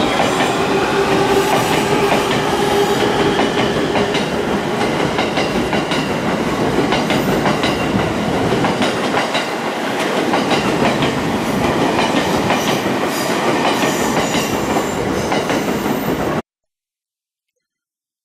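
Takasaki Line electric commuter train pulling out and running close past, its wheels clattering over rail joints, with a steady motor whine in the first few seconds. The sound cuts off suddenly about sixteen seconds in.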